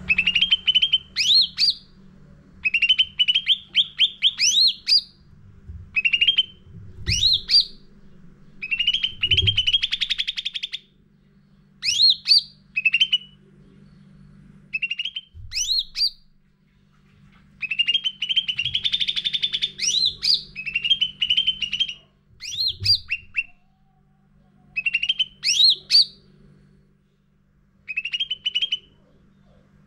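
Cucak ranting singing in repeated bursts of quick, rising, looping whistled notes, each phrase a second or two long with short pauses between, over a faint steady low hum.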